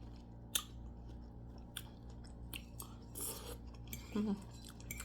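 A person chewing food close to the microphone, with scattered short mouth clicks and a brief voiced hum just after four seconds.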